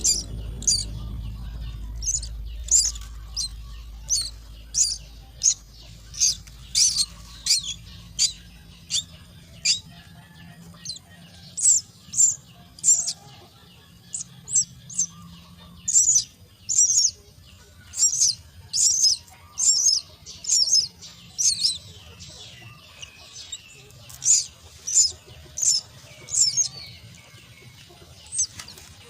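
Myna chicks at the nest giving repeated short, high-pitched calls, roughly one or two a second in runs, typical of nestlings begging for food.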